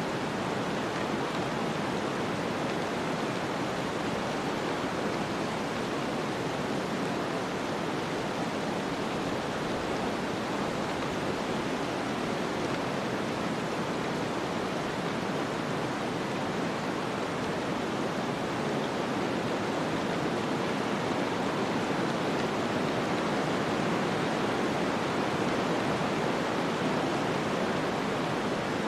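Snowstorm ambience: a steady, even rushing of wind-like noise with no distinct events, swelling slightly in the second half.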